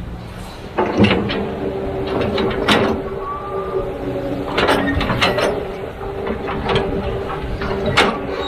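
Kobelco SK200-10 excavator working, its engine and hydraulics running steadily with a held tone that comes in about a second in. Sharp metallic clanks sound every second or so, the loudest about a second in and near the end.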